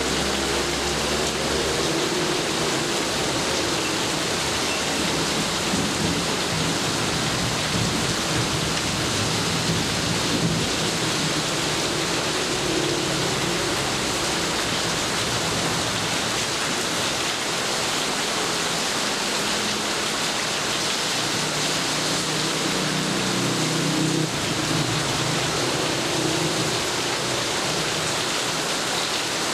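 Heavy rain falling steadily, a dense even hiss, with low thunder rumbling underneath at times.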